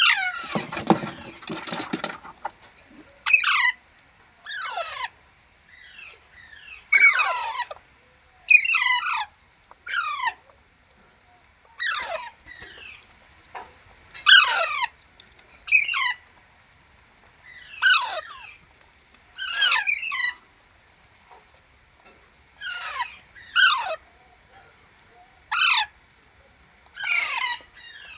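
Parrot giving a series of short, shrill calls, each sliding down in pitch, repeated every second or two. A rustling noise comes in the first couple of seconds.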